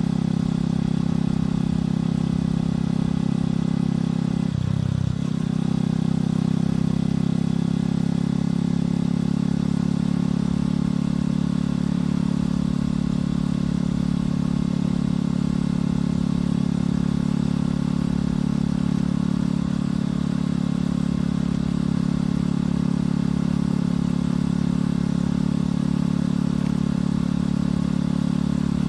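Motorcycle engine and exhaust running steadily while riding at a constant pace, with a brief dip in the engine note about five seconds in.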